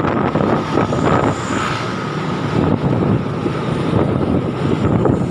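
Truck running with steady engine and road noise, wind buffeting the microphone.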